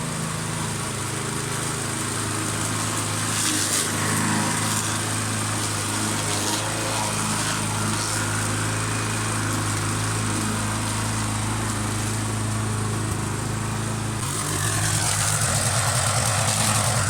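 Petrol lawn mower engine running steadily while mowing, its note shifting about fifteen seconds in.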